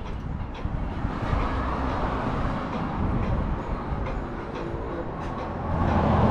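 A steady low rumble and rushing noise of a passing vehicle, growing louder near the end, with a few faint clicks.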